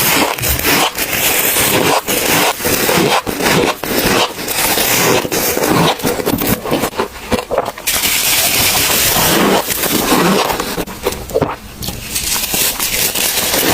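Freezer frost being scraped and crunched: a dense run of crackling, crunching strokes, with a longer unbroken scrape around the middle.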